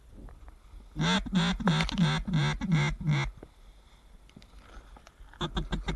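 Duck call blown in a run of about seven loud, rapid quacks, then a quicker, quieter run of quacks starting near the end.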